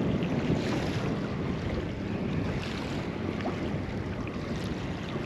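Steady wind blowing over the microphone, with water lapping against a small boat's hull.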